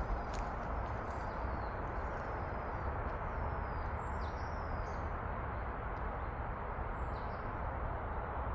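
Small birds chirping in woodland, scattered short high calls with a few quick falling whistles, over a steady rushing background noise.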